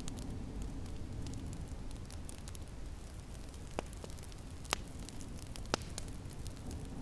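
Wood fire crackling in a fireplace, with faint fine ticks and three sharp pops in the second half, over a steady low rush of snowstorm wind.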